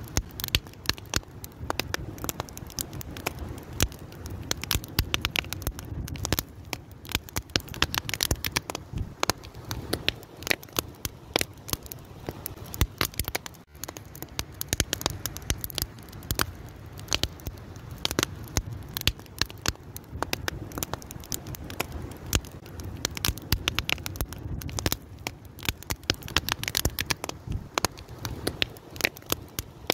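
Wood fire crackling and popping, with dense irregular snaps over a steady low rumble of burning.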